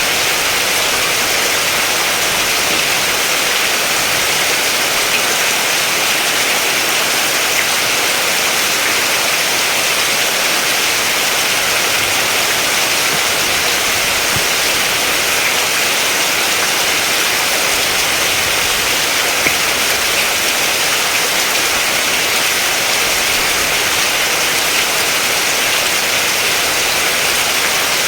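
Steady rain falling, an even hiss with an occasional louder single drop.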